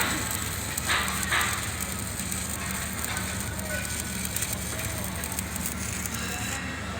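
Electric arc welding on galvanized steel pipe: a steady crackling arc, with two short louder hisses about a second in, over a low steady hum.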